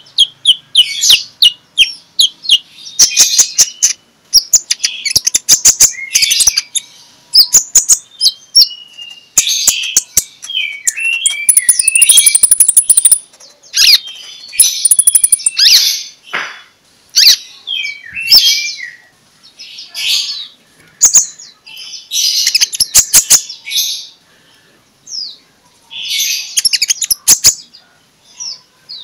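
Kolibri ninja (konin) sunbird song: bursts of rapid, high chirps, sharp clicks and quick trills, broken by short pauses. It is a masteran training recording used to lure a caged konin into singing.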